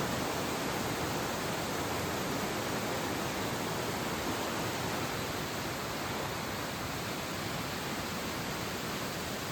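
Steady rushing of fast-flowing water, an even hiss that holds unchanged throughout.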